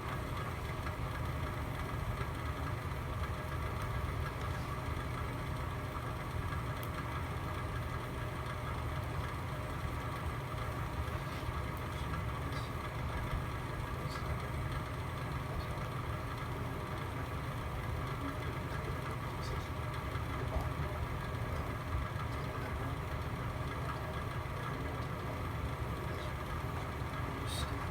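Fire burning in a fireplace: a steady low rumble of flames with a few faint, scattered crackles.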